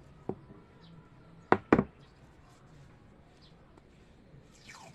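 Three short, sharp knocks, a small one just after the start and a louder close pair about a second and a half in, from hands working on an old top-loading washing machine's worn drive belt while it is being wrapped with masking tape.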